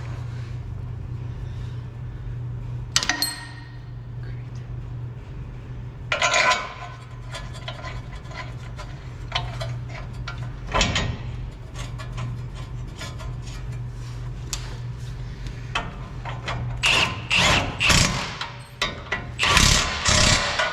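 Metal tools and parts clanking and clicking while suspension bolts are worked on, with a single ringing clink about three seconds in and a busier run of knocks near the end, over a steady low hum.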